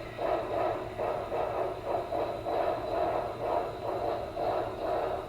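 Recorded steam-locomotive chuffing from the sound decoder of an HO scale Norfolk and Western Y6B model, played through its small onboard speaker as the engine runs slowly. It is a steady beat of about two to three chuffs a second over a low hum.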